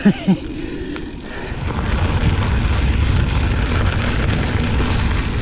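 Wind rumbling on the camera microphone, mixed with the noise of mountain bike tyres rolling over a dirt trail; it grows louder about a second and a half in and stays steady.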